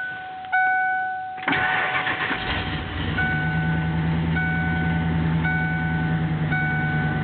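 The 1994 Ford F-250's 460 (7.5-litre) gas V8 cranks briefly and fires about one and a half seconds in on a cold start, then settles into a steady idle of about 700 rpm. The truck's door chime dings about once a second throughout.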